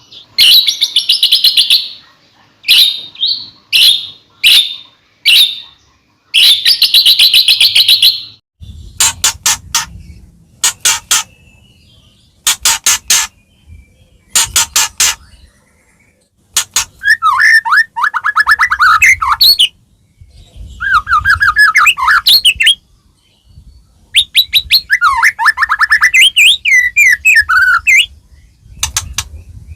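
White-rumped shama (murai batu) singing a long, varied song in loud phrases with short pauses between them. It opens with bursts of high, rapid notes, moves into trains of sharp clicking notes, and in the second half turns to lower, rapidly warbled whistling phrases.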